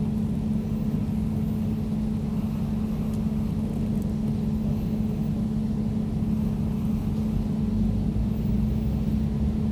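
Air conditioner running steadily: a constant low hum with one strong steady tone over a deep rumble of fan and airflow, the rumble swelling slightly near the end.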